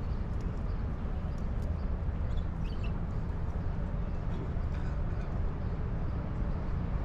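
Wind rumbling on a handheld microphone while walking, with faint scattered clicks of footsteps on a wooden boardwalk and a brief faint chirp about two and a half seconds in.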